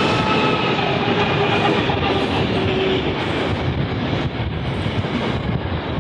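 Freight train passing close by. The engine note of the trailing GL-class diesel locomotive fades over the first few seconds, then double-deck car-carrier wagons roll past with their steel wheels clattering on the rails.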